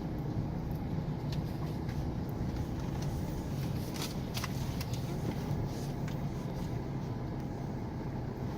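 Motor vehicle driving slowly, its engine and tyres making a steady low rumble, with a few light clicks and knocks.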